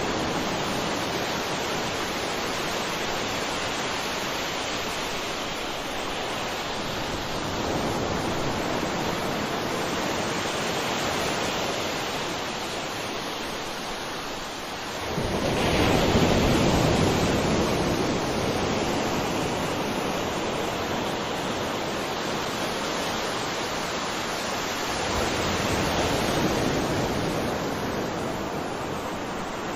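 Sea waves washing ashore: a continuous rush of surf that swells and fades every few seconds. The biggest wave breaks about halfway through.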